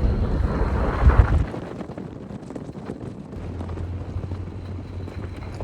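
Wind buffeting the microphone with a loud low rumble, which cuts off suddenly about a second and a half in, leaving a quieter low steady hum.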